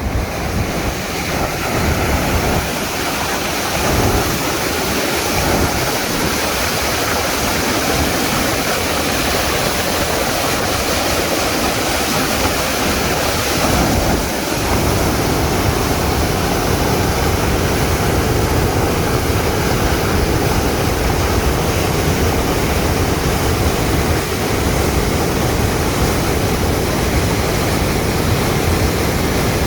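Swollen Arkansas River pouring over a diversion-dam spillway at the headgates: a loud, steady rush of water, the river running near flood stage.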